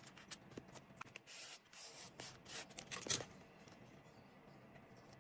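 Close-miked journaling sounds on paper: scratching and rubbing with a scatter of small clicks, busiest in the middle and ending with a sharp click about three seconds in.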